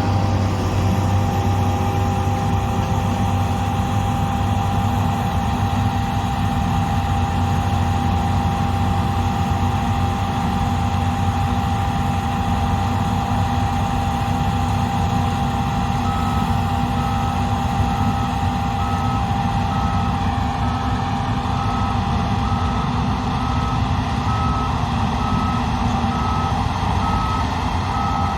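Heavy harvest machinery running steadily with a steady whine, and a reversing alarm beeping about once a second from about halfway through.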